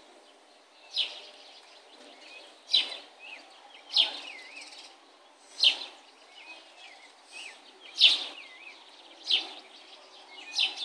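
Songbirds chirping: a loud, sharp chirp every one to two seconds, with softer twittering in between.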